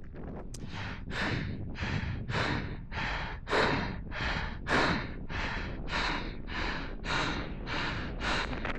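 A runner breathing hard and fast while climbing uphill, a steady rhythm of about two to three breaths a second.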